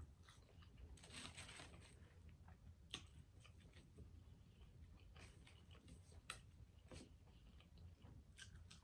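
Faint chewing of french fries and a chicken nugget, with scattered soft clicks and crunches from the mouth and food.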